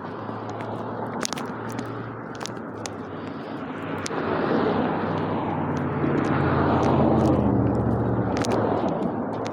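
A vehicle's engine passing by, growing louder from about four seconds in and easing off near the end, with scattered small clicks.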